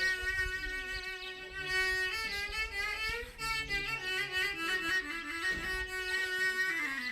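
Music: a bowed string instrument plays a melody above a held low drone note, which dips in pitch near the end.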